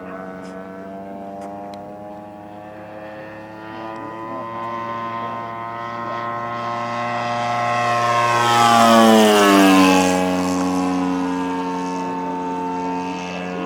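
Zenoah GT80 twin-cylinder gas engine of a giant-scale radio-controlled FW-190 model in flight, its propeller note growing louder as the plane makes a pass. The engine is loudest about nine seconds in, where the pitch drops as the plane goes by, then it fades a little.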